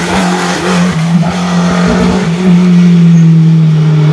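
Rally car engine running hard at high revs as the car drives through a bend, its note held nearly steady and rising slightly about two and a half seconds in, with a few short sharp cracks.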